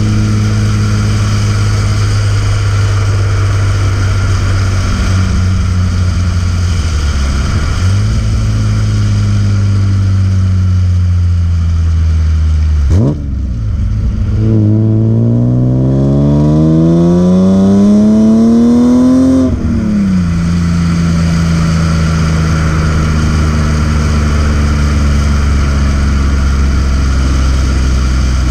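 BMW E36 M3's S50B30 straight-six engine running at steady revs, with the pitch slowly sagging. About 13 seconds in there is a quick, sharp blip. The revs then climb for about five seconds and cut off abruptly before settling back to a steady lower note.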